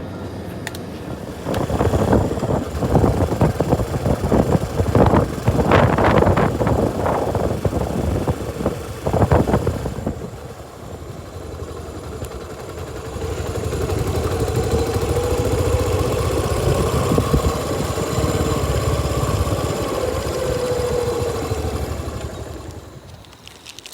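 A motorcycle engine running, with loud, uneven surges in the first part and a steadier drone from about halfway, fading out near the end.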